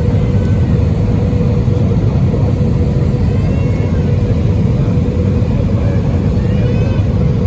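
Airbus A320 cabin noise: a steady, loud roar of the engines and rushing air, with a constant hum running through it.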